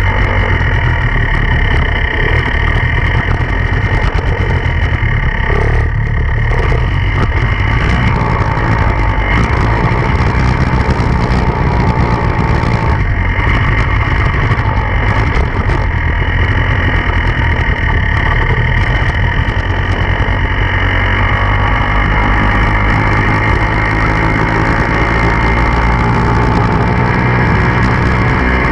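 Enduro dirt bike engine running continuously as the bike is ridden, its pitch wavering as the throttle changes, with brief easings of throttle.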